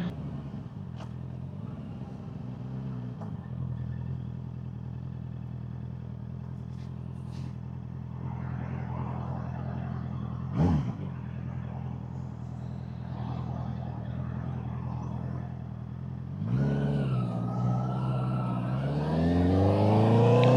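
Honda CBR650R inline-four with an aftermarket Vandemon exhaust idling steadily, with one short throttle blip about halfway through. Near the end the revs swing up and down, then climb steadily and louder.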